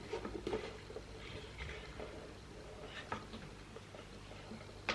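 Soft scattered taps and rustles of a cardboard gift box being handled, with a sharper click near the end, over a faint low room hum.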